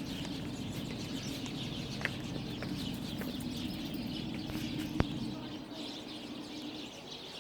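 Small birds chirping over a steady low drone that fades out near the end, with one sharp knock about five seconds in.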